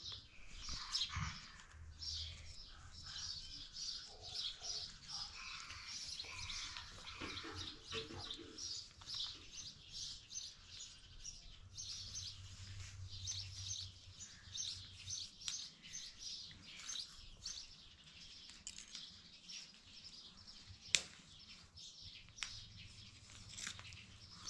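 Birds chirping: many quick, high chirps with hardly a break, and one sharp click a few seconds before the end.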